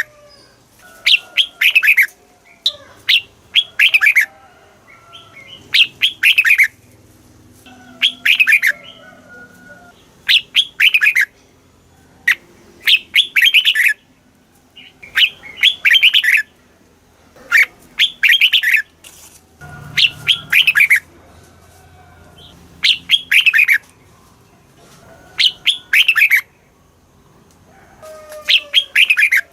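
Red-whiskered bulbul singing: short, bright phrases of several quick notes, each about a second long, repeated every two to three seconds.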